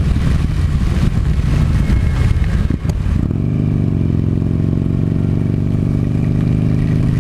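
Buell Firebolt's V-twin engine running under way on a wet road, with a hiss of rain and road spray over it. About three seconds in, the engine note breaks briefly, then climbs and settles into a steady run.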